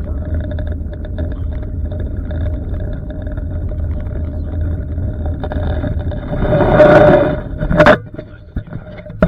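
Road noise inside a moving car: a steady low rumble that swells into a loud rush about seven seconds in and ends in a sharp knock, after which the rumble drops away.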